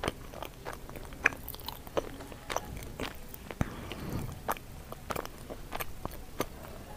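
Chewing and biting through a mouthful of sweet potato leaves and stems, with irregular crisp crunching clicks a few times a second.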